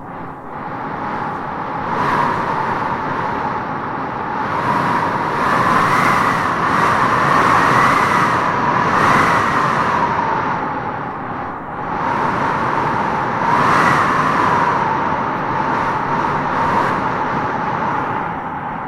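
Howling wind gusting through trees: a steady rush with a whistling howl that swells and fades with each gust, strongest several times through the stretch.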